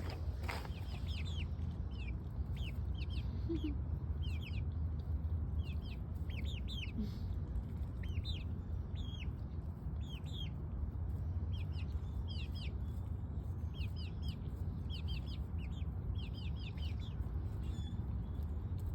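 Birds chirping: short, high, falling chirps repeated in quick clusters throughout, over a steady low rumble.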